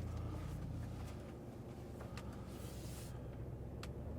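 Pickup truck's engine running with a low, steady hum, heard from inside the cab, with a few faint clicks.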